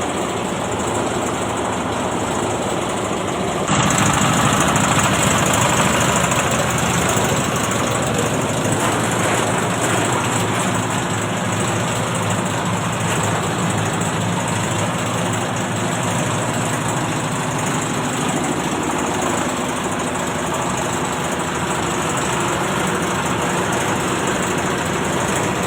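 Oil palm loose-fruit threshing machine running steadily with an engine-like drone and rumble. About four seconds in, the sound abruptly becomes louder and brighter, then holds steady.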